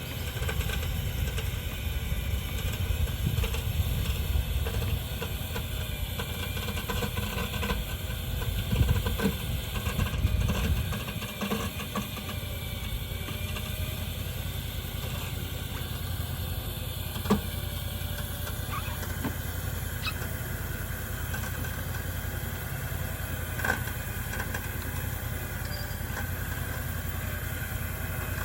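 Tractor engine running, rough and uneven for the first ten seconds or so, then settling to a steady run. Two short sharp knocks come partway through.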